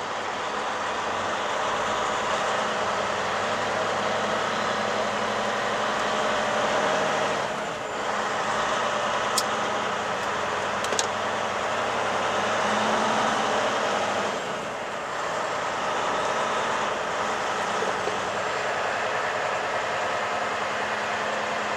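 Semi truck running down the highway, heard from inside the cab: a steady engine drone under road and tyre noise. The level dips briefly twice, and there are a couple of small clicks.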